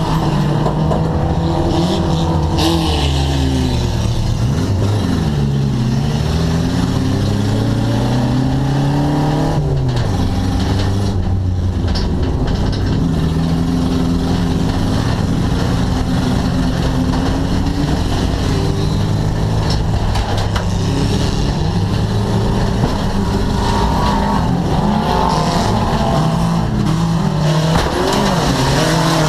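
Stock car engine heard from inside the stripped cockpit, running hard under racing load. Its pitch rises and falls repeatedly as the driver accelerates, lifts and changes gear.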